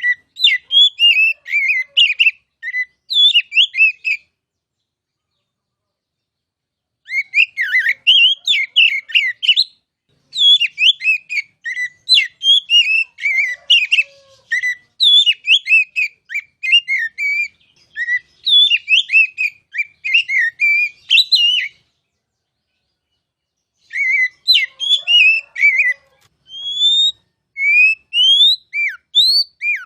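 Oriental magpie-robin (kacer) singing: bursts of rapid, varied whistled phrases broken by pauses of a few seconds, ending in a series of separate rising whistles.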